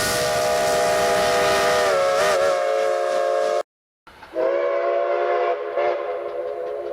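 Steam locomotive chime whistles. One whistle sounds a held chord of several tones, then cuts off abruptly about three and a half seconds in. After a brief silent gap, another chime whistle starts and holds its chord.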